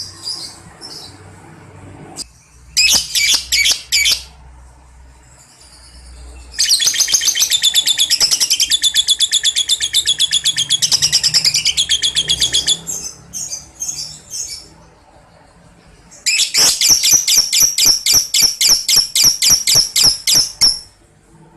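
Lovebird ngekek: long, rapid, chattering high-pitched trills. Two long runs of several seconds each follow a few short chirping bursts.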